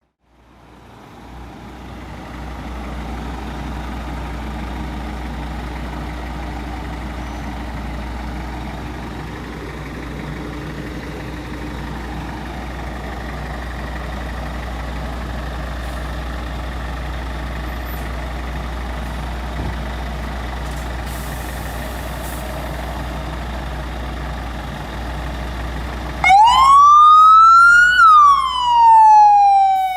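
A Scania P450 fire truck's diesel engine running steadily with a low hum. About 26 seconds in, its siren starts much louder in a slow wail, rising in pitch and then falling.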